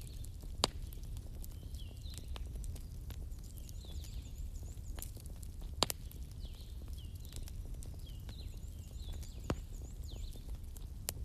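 Wood fire crackling in a fireplace, with a few sharp pops, over a steady low rumble of storm wind.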